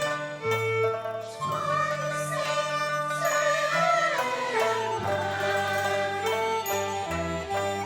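Cantonese opera music: the ensemble plays a melody whose notes glide up and down.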